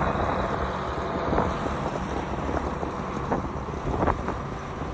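Vehicle engine idling steadily, with some wind on the microphone.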